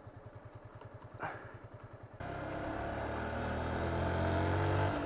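Motorcycle engine idling with an even low pulse. About two seconds in it cuts abruptly to a louder engine sound that grows steadily louder.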